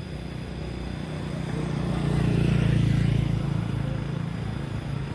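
An engine passing close by, growing louder to a peak about two to three seconds in, then easing off.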